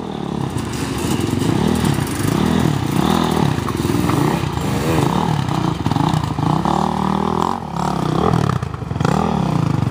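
Dirt bike engines revving up and down over and over, the pitch climbing and dropping every second or so.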